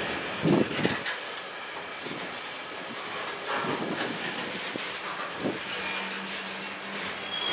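Freight cars of a passing train rolling by close up, their wheels clacking over the rail joints over a steady rumble. There are two loud thumps about half a second in and a few smaller knocks later.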